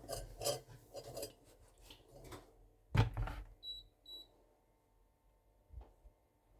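Kitchen handling sounds: a few light clicks and rustles, then a sharp knock about three seconds in, followed by two short high electronic beeps from a kitchen appliance.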